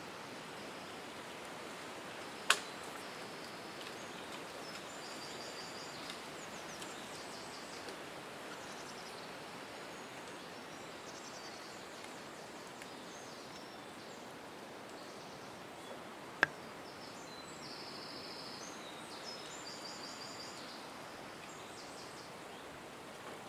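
Small birds chirping with short, rapid high-pitched trills over a steady background hiss of outdoor ambience, with two sharp clicks, one a couple of seconds in and one about two-thirds of the way through.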